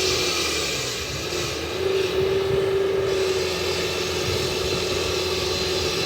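Concrete saw cutting asphalt, running with a steady high whine over a hiss. It sags briefly about a second in, then picks back up.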